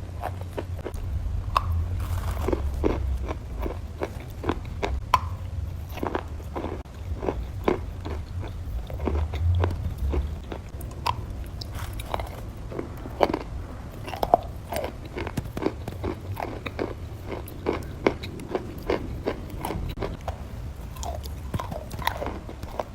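Crunchy biting and chewing: many sharp, irregular crunches one after another, over a low steady hum.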